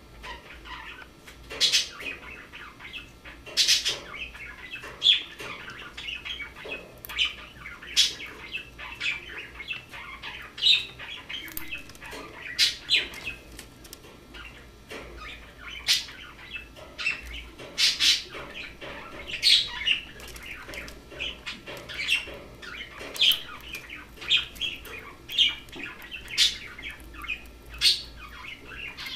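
Pet cockatiel chirping and chattering in a long run of short calls, with frequent sharp, loud high chirps every second or two.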